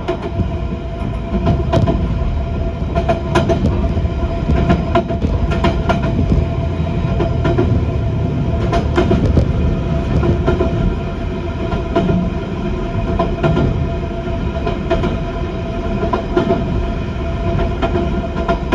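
Passenger train running along the line, heard from inside the car: a steady drone with a constant whine, and scattered clicks and clacks from the wheels over the rail joints.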